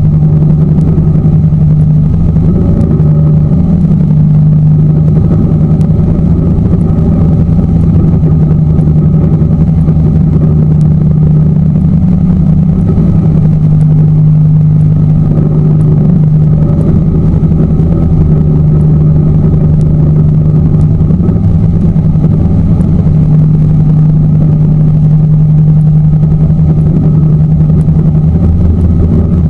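Tour boat's motor running steadily, a loud constant engine hum.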